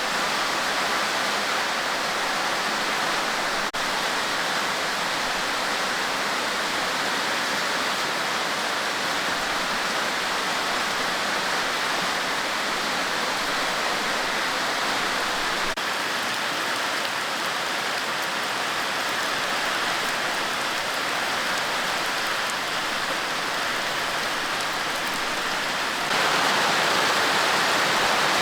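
Steady rushing water, with no separate events in it, which steps up louder near the end.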